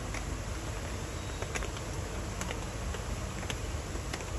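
Rain falling, with single drops ticking sharply at irregular moments over a steady low hiss and rumble.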